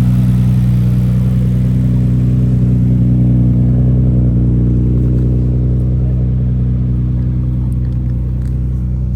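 Car engine running steadily at an even, unchanging speed: a loud, low hum with no revving.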